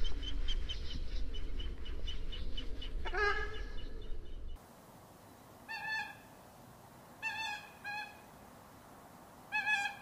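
A ruddy shelduck gives a single honking call about three seconds in. After a cut, a Eurasian coot gives short, sharp calls four times.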